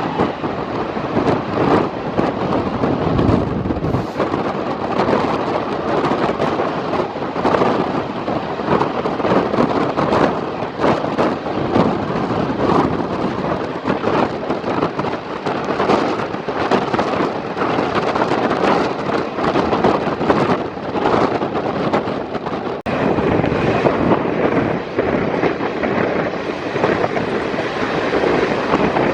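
Twin WDG-3A ALCo diesel locomotives chugging under power, their turbocharged 16-cylinder ALCO 251 engines heard from the leading coach, over the clatter of the coach wheels on the track. A single sharp knock stands out about three-quarters of the way through.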